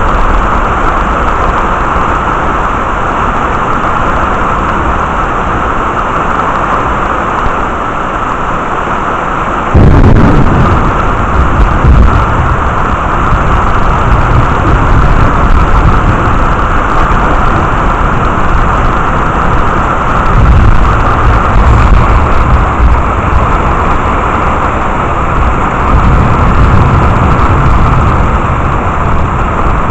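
Heavy, steady rain. About a third of the way in a sudden loud thunderclap breaks in, followed by rolling rumbles of thunder that swell twice more later on.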